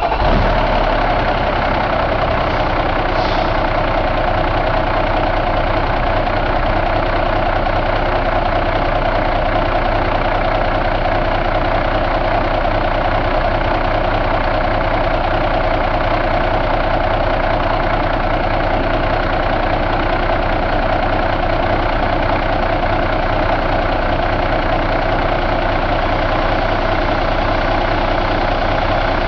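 2009 Cummins ISX inline-six diesel engine idling steadily.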